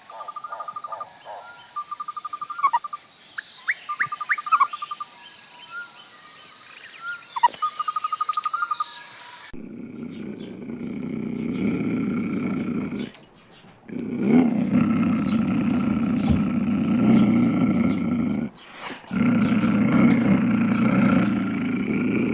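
Small chirps and rapid trilling calls, several times over. Then, after an abrupt change about nine and a half seconds in, a large animal's low, rough roaring comes in three long stretches.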